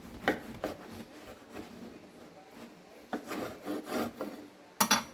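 Bread knife sawing through a crusty rye-wheat sourdough loaf in repeated back-and-forth strokes, heaviest about three seconds in, with two sharp knocks near the end.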